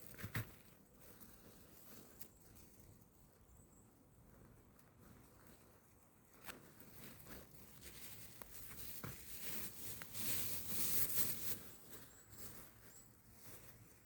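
Soft rustling and crunching on the woodland floor with scattered small clicks, growing into a louder stretch of rustling about ten seconds in. A few faint, short, high bird chirps.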